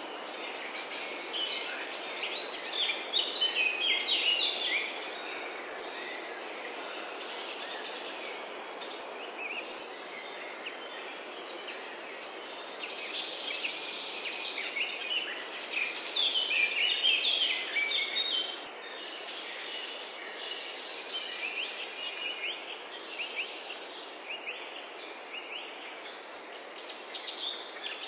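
Songbirds singing short phrases every few seconds, each opening with high notes that drop in pitch, over a steady background hiss.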